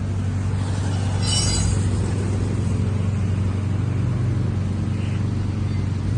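Honda Civic turbo with an aftermarket full exhaust and valvetronic valve running steadily at idle, a low, even exhaust drone. A brief high-pitched sound comes in about a second in.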